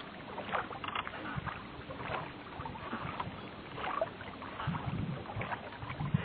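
Water splashing and lapping around a rowed sampan, with irregular splashes of oar strokes.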